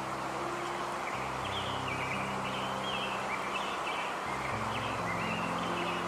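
Natural ambience: small birds chirping repeatedly over a steady rushing background, with low held tones underneath that shift pitch every few seconds.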